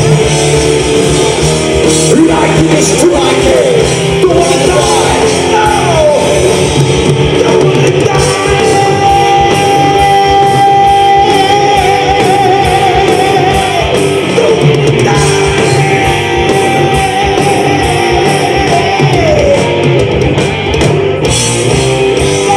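Live rock band playing loudly: electric guitars, bass and drums with singing. Long held notes with vibrato come through in the middle.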